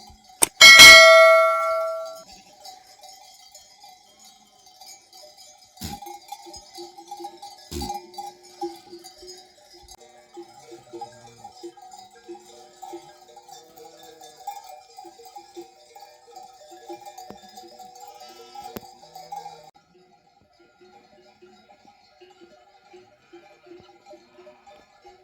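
Sheep bells. One bell clangs loudly about half a second in and rings out for over a second, then from about six seconds in softer bells jingle irregularly as the flock moves.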